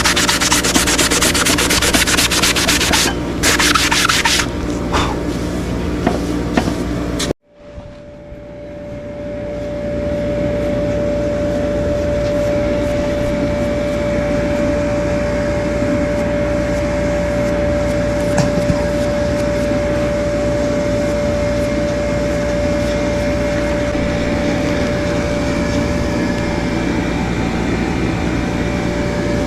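Abrasive sanding on a horse's hoof for about seven seconds, cutting off abruptly. A steady droning hum with one constant tone then fades in and holds.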